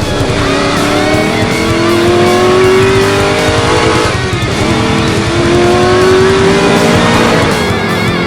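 Car engine sound effect revving up through the gears, two long rising pulls one after the other, laid over high-energy rock music.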